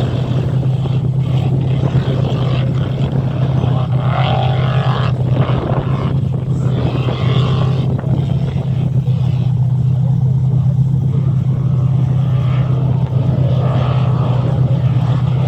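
A vehicle engine running with a steady, unchanging low drone.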